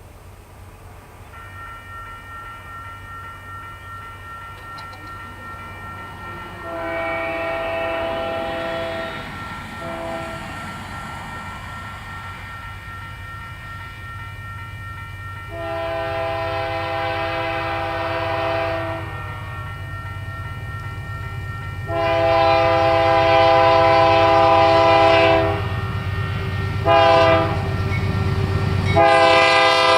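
Union Pacific GE C44AC diesel locomotives approaching, their low rumble growing louder, while the lead unit sounds its air horn: a faint chord at first, then loud blasts. The last four make a long-long-short-long pattern, the standard grade-crossing signal.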